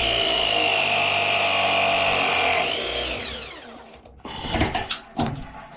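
Copper pipe press tool crimping a fitting: its motor runs with a steady whine, sinking slightly in pitch under load, then winds down with a falling pitch about three seconds in as the press cycle finishes. A few handling clicks and knocks follow.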